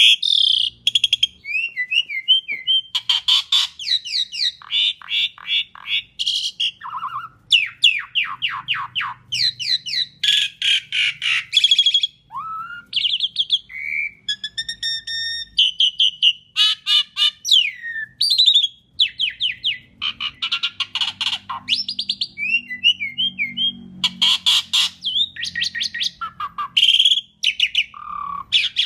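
Asian pied starling (jalak suren) singing a long, varied song almost without pause: fast chattering trills, rapid runs of repeated notes and short whistles, strung together as a full 'isian' song of mixed phrases.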